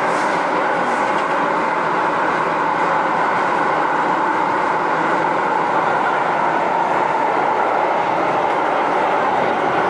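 MTR Tsuen Wan Line M-train running along the line: a steady, loud rumble of wheels and running gear with a hum concentrated in the middle range, unbroken throughout.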